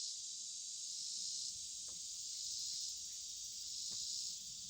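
Insect chorus buzzing in a high, steady drone that swells and fades every couple of seconds, with two faint clicks about two and four seconds in.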